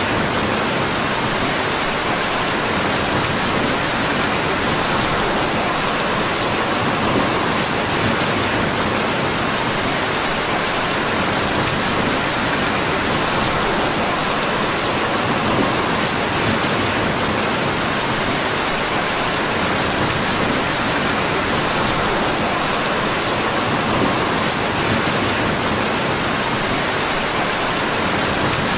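Steady rain falling, an even hiss with no change in strength, with a few faint scattered ticks.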